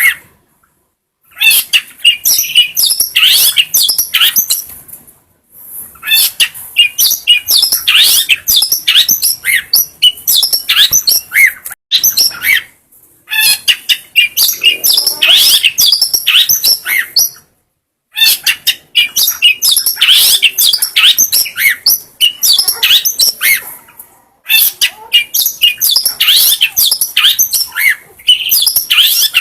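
Long-tailed shrike (cendet) singing loud bouts of rapid, high chirps and twittering phrases, each bout several seconds long, broken by pauses of about a second.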